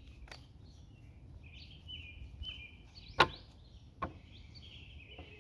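Birds chirping steadily, with three sharp taps or clicks over them, the loudest about three seconds in.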